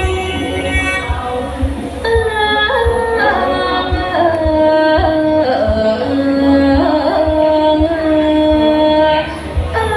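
Thai classical vocal music of the kind sung for lakhon nok dance-drama: a singer holds long notes that bend and slide in pitch over drum strokes and instrumental accompaniment.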